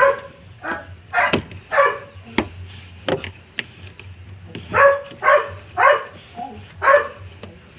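A dog barking in runs of short, sharp barks about two a second, with a break of a second or so in the middle where a few sharp clicks are heard.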